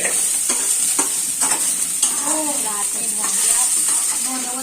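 Poha frying in a hot pan with a steady sizzle, while a spatula is stirred through it, scraping and tapping against the pan several times.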